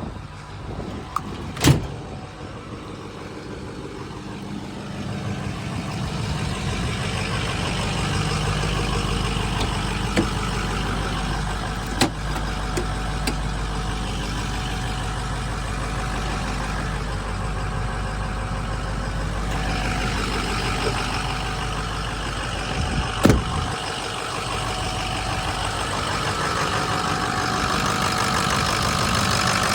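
The 6.0-litre Power Stroke V8 diesel of a 2005 Ford F350 Super Duty runs at a steady idle, growing louder over the first several seconds. A sharp click sounds about two seconds in and another knock about three-quarters of the way through.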